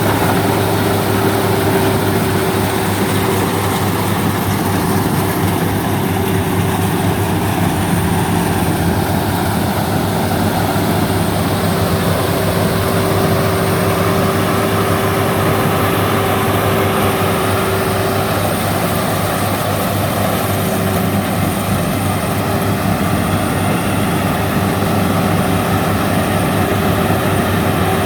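Rice combine harvester engine running steadily while harvesting, a loud, even drone with a constant whine.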